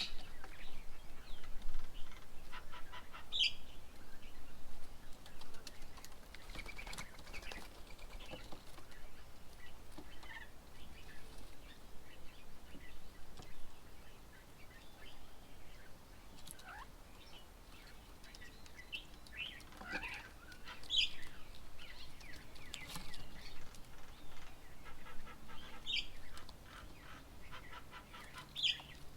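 Birds calling around a bird table: scattered short chirps and calls, some sliding in pitch, with a few sharp clicks between them.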